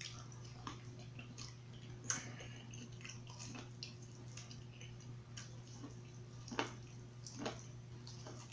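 Close-up eating sounds from a seafood boil: scattered wet chewing clicks and lip smacks, the sharpest about two seconds in and again near six and a half seconds, over a steady low hum.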